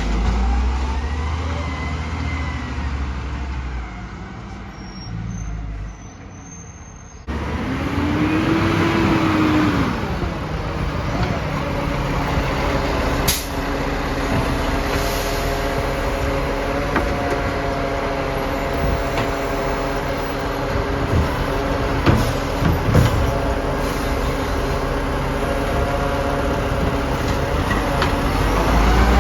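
Garbage truck at work: its diesel engine and hydraulics run with a steady whine, after a tone that rises and falls about eight seconds in. A few sharp knocks come later.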